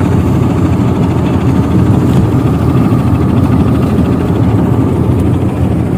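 Tugboat engine running steadily, a heavy, even rumble.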